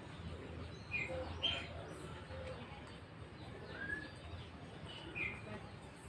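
A few short, scattered bird chirps, spaced a second or more apart, over a faint low background rumble.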